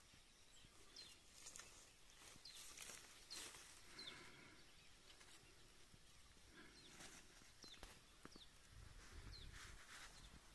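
Near silence, with faint short high chirps of small birds scattered every second or so, each falling in pitch, and faint rustling of dry brush.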